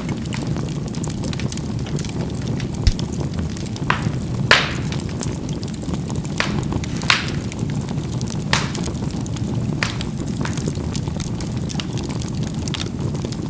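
Charcoal burning in a fireplace: a steady low rush of burning, with sharp pops and crackles of the coals scattered through. The loudest pops come in a cluster between about four and ten seconds in.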